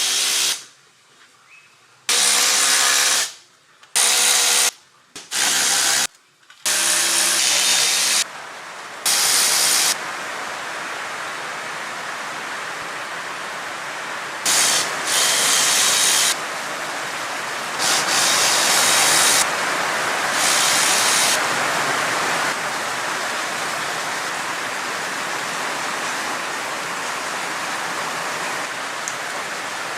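Cordless power tool running in short bursts, about seven in the first ten seconds, each with a whining motor pitch. It is followed by a steady hissing noise that swells louder three times.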